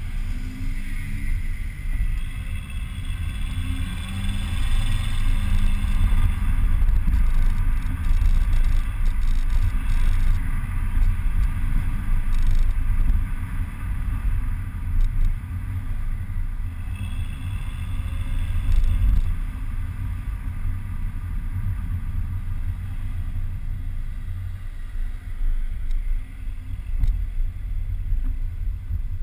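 Volvo C30 T5's turbocharged 2.5-litre five-cylinder engine running through its stock exhaust, with a heavy low rumble. A higher whine rises with the revs twice, once in the first few seconds and again a little past the middle.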